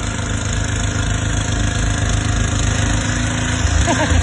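An engine running steadily at idle, a low even hum, with a faint voice near the end.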